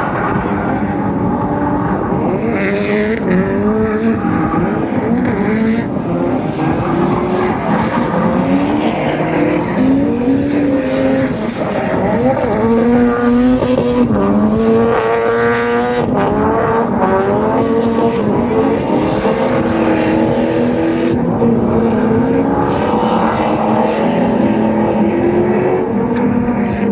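Drift cars' engines revving up and down hard, with several bursts of tyre squeal as the cars slide.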